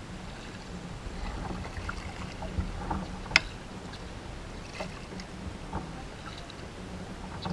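Kayak paddling on a river: small water splashes and drips over a low wind rumble on the microphone, with one sharp click about three and a half seconds in.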